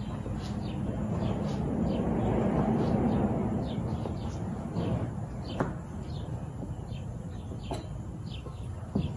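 Songbirds chirping, short falling chirps repeating a couple of times a second. A broad rushing noise swells and fades in the first few seconds, and a few sharp knocks come in the second half.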